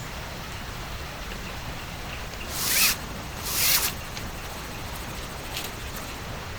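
A zipper pulled twice in quick succession, each pull rising and stopping short, about halfway through.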